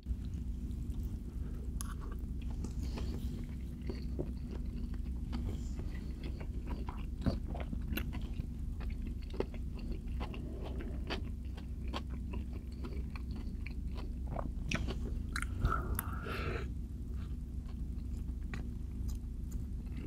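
A person chewing soft food close to the microphone, with many small wet mouth clicks. A steady low hum runs underneath.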